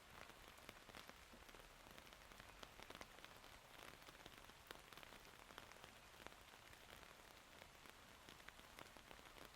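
Faint, steady rain falling: an even hiss with many separate drops ticking at irregular moments.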